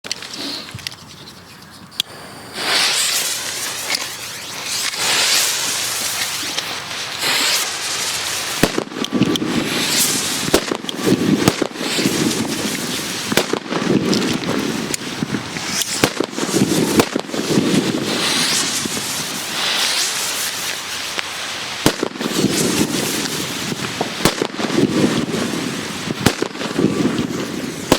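Spanish Trueno No. 6 Especial firecrackers going off: after a quieter first two seconds, a continuous fizzing hiss with sharp bangs every second or so.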